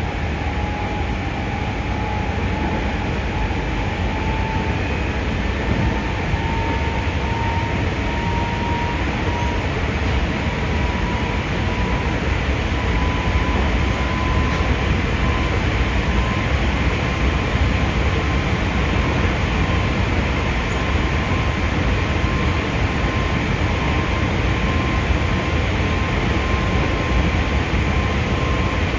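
Hankyu 5300 series resistor-controlled electric train running, heard from inside the car: a steady rumble of wheels on rail. Over it a thin motor whine rises slowly in pitch for the first ten seconds or so, then holds steady as the train keeps speed.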